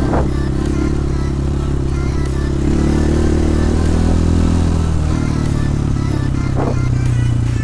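A 250 cc enduro motorcycle engine running under throttle. It revs up about two and a half seconds in, holds, then drops back about five seconds in. There is a short knock near the start and another near the end.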